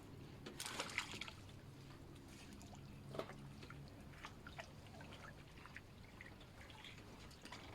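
Faint water splashing and dripping, with a brief louder splash about a second in and scattered small drips and clicks.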